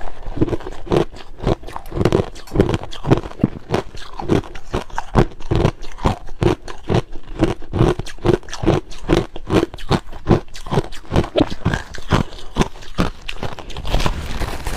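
Crushed ice being chewed close to the microphone: a steady run of crisp crunches, about three a second.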